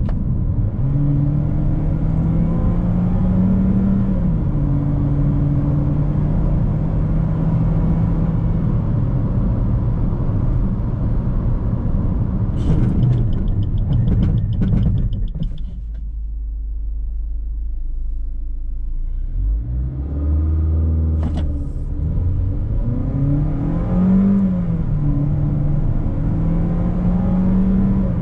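Suzuki Vitara Turbo's 1.4-litre turbocharged four-cylinder engine pulling through the gears, its pitch rising and dropping at each shift. It eases off to a low steady hum for a few seconds in the middle, with a brief rapid ticking just before, then picks up again and climbs near the end.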